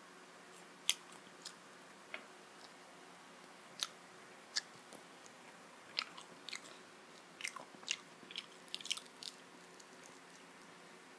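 A person biting and chewing fried chicken lollipop close to the microphone: scattered sharp mouth clicks and smacks, coming more often in the second half.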